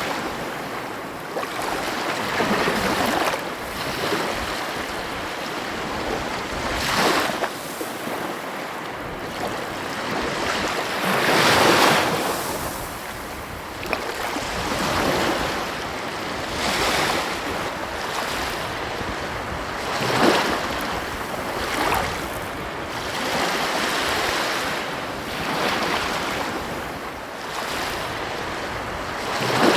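Ocean surf breaking and washing ashore, a steady rush that swells with each wave every few seconds; the largest wave breaks about twelve seconds in.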